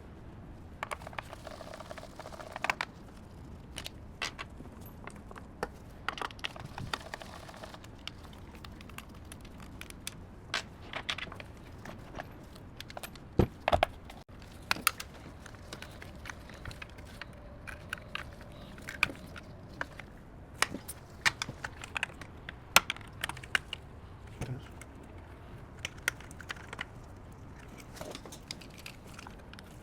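Irregular sharp clicks, taps and small clatters of hand tools and parts being handled on an electronic module, as a circuit board is worked out of a battery management ECU casing.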